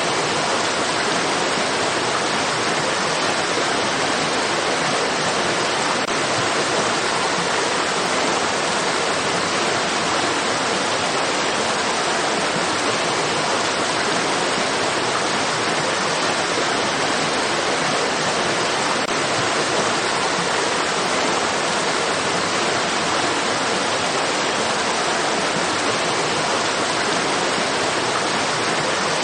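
Rushing stream water: a steady, even hiss with no change.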